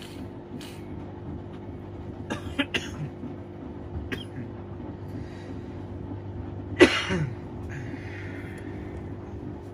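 Washing machine running with a steady motor hum, a few light knocks and one louder clunk about seven seconds in, followed by a short hiss.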